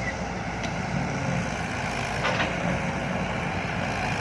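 Heavy diesel engines of dump trucks and excavators running steadily, with two brief sharp sounds, about half a second and two seconds in.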